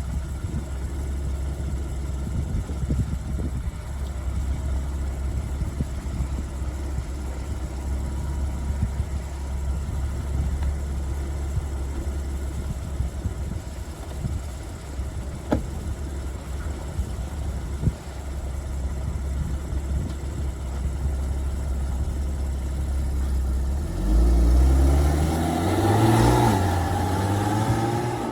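Porsche Boxster S 3.4-litre flat-six running at a steady idle; about 24 seconds in the engine gets louder and its note climbs and wavers in pitch before easing off near the end.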